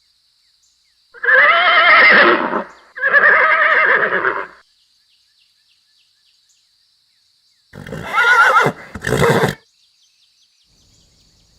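Horse neighing: two long whinnies with a wavering pitch, then after a pause two shorter, rougher calls.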